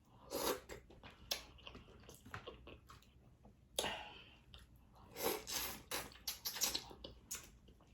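Close-miked eating of sauced boiled seafood: wet chewing and lip smacks in irregular bursts.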